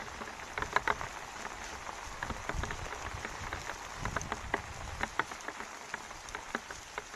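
Heavy rain falling steadily, a continuous hiss with irregular sharp drips tapping close by. Two brief low rumbles come a little past the middle.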